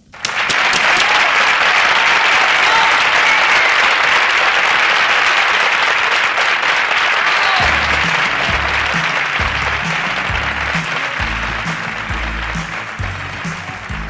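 Audience applauding, starting abruptly at full strength and slowly dying away. About halfway through, the song's introduction starts under the applause with a pulsing bass line.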